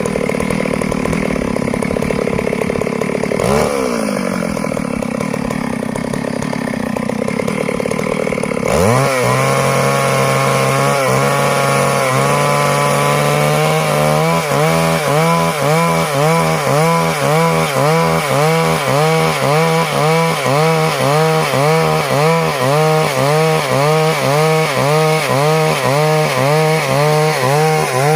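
Stihl MS 382 two-stroke chainsaw running continuously. Its engine pitch drops and recovers in the first few seconds, then climbs to high revs about nine seconds in. From about fourteen seconds the pitch dips and recovers in an even rhythm, a little more than once a second, as it saws through wood.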